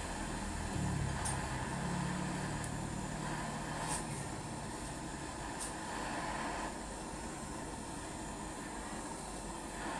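Steady hiss of a handheld gas torch brazing a refrigerator's aluminium capillary-tube joint, with a low engine-like hum in the first few seconds.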